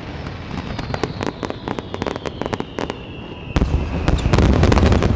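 Fireworks display: rapid crackling pops from many small bursts, with a thin whistle slowly falling in pitch through the middle. About three and a half seconds in, a loud deep boom and rumble from a large shell bursting.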